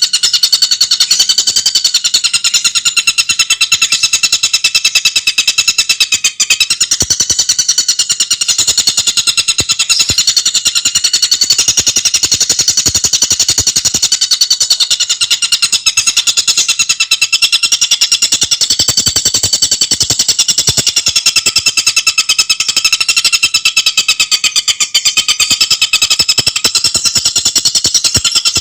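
Tengkek buto bird calling in a fast, unbroken high-pitched rattle of rapidly repeated notes.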